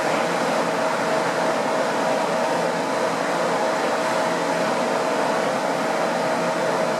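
A Boeing 787-8 Dreamliner's auxiliary power unit running steadily, heard at its exhaust: an even rushing noise with a steady whine.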